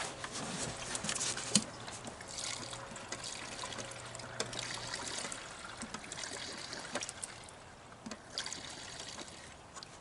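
Gasoline being poured from a can through a water-separator funnel into a mower's fuel tank, trickling steadily with small clinks.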